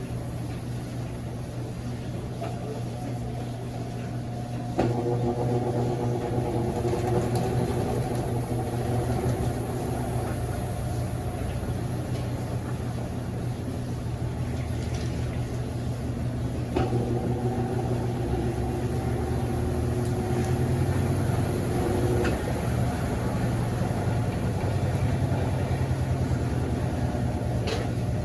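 Consul CWS12 12 kg washing machine draining, its drain pump running with a steady low hum. A louder, higher hum joins suddenly about five seconds in and steps up again around seventeen seconds.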